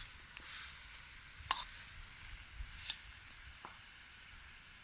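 Lardons and chicken sizzling in a hot wok over a campfire, a steady hiss, with a few sharp clicks, the two loudest about a second and a half and three seconds in.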